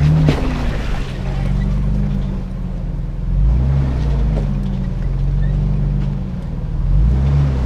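Truck engine pulling at low speed off-road, its note swelling louder three times as the throttle comes on and eases off. A short rush of noise comes in the first second.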